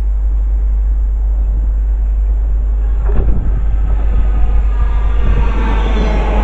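Train approaching through a station, its rail and running noise growing louder over the last second or two. Wind rumbles steadily on the microphone, with a thump a little after three seconds.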